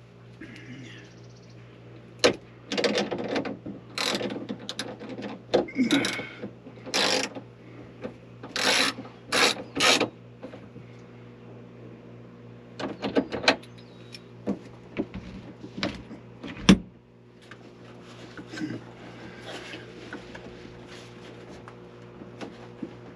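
Tool work on an RV's electrical cover: a series of short mechanical rattles and sharp clicks, with pauses between them, over a steady low hum.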